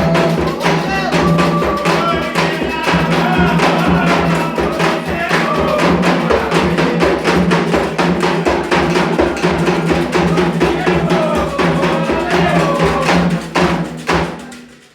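Candomblé ritual music: hand drums (atabaques) beating a steady, dense rhythm with a clacking percussion part and voices singing over it. It fades out just before the end.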